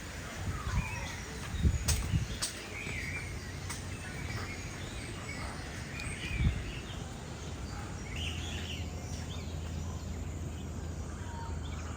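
Several birds calling: scattered short chirps and whistles over a steady background, with two sharp clicks about two seconds in and a few low thumps.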